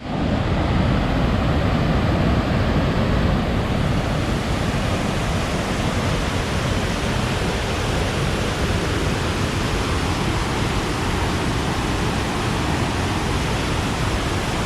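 Fast-flowing river water rushing over rapids, a steady loud roar with no breaks.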